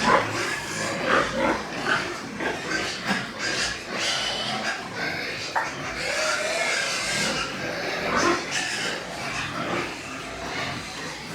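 Pigs grunting, a run of many short irregular calls with a few longer pitched ones.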